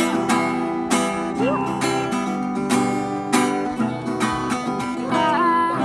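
Acoustic guitar strummed in a steady chord rhythm, about three strokes a second.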